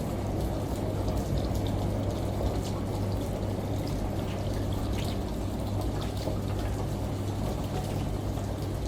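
Washing machine running with water: a steady low hum under a continuous churning, pouring water sound, with scattered light drip-like ticks over it.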